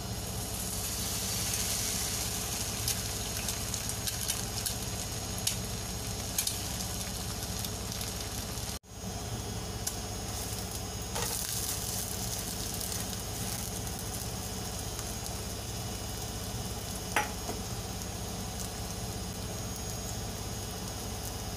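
Egg and spring-onion flour pancake frying in oil in a nonstick pan, a steady sizzle, with a spatula now and then clicking and scraping against the pan as the egg is spread and the pancake turned.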